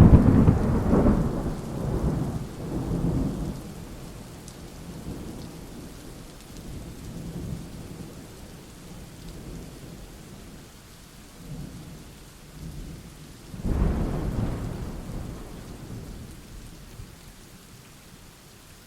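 Thunderstorm: a sudden loud thunderclap right at the start that rumbles away over about four seconds, and a second peal of thunder about fourteen seconds in, over steady rain.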